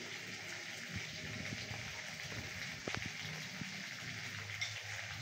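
Boiled potato pieces sizzling quietly in oil in a steel kadai, with a few light clinks of a spoon as salt is sprinkled in.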